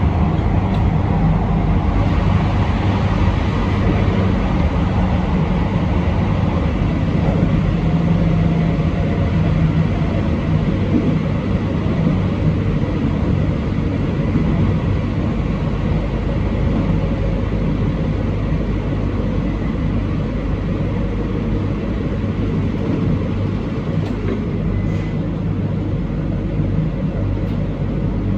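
Electric train running steadily along the track, heard from inside at the front of the car: a continuous low rumble of wheels on rails with motor hum, with no rail-joint clicks standing out.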